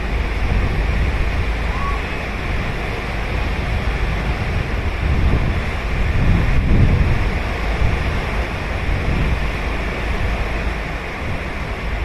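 Ocean surf breaking and washing ashore, a steady rushing that swells louder about halfway through and again near the end.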